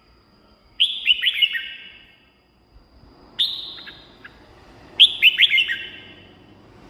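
Red-whiskered bulbul singing three short, loud phrases, each a quick run of falling whistled notes.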